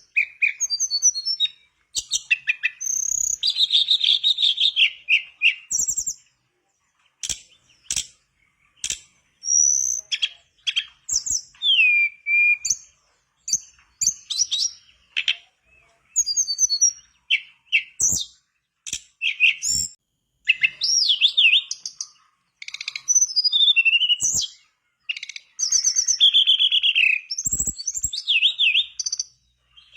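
A tledekan bakau songbird singing in rapid, varied phrases: high chirps, trills and swooping whistled notes, broken by short pauses and a few sharp clicks.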